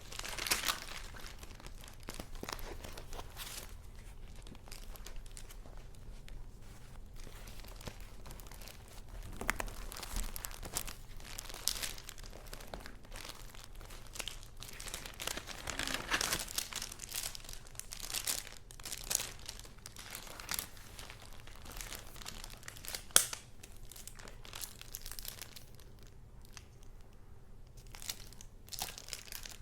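Paper and card handled by hand: repeated rustling and crinkling as sheets, envelopes and journal pages are moved and turned, with a sharp click about 23 seconds in.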